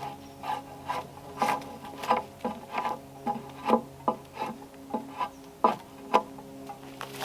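A hand tool working timber in short, repeated scraping strokes, roughly two a second, as a rafter is shaped and finished. Quiet background music with held notes runs underneath.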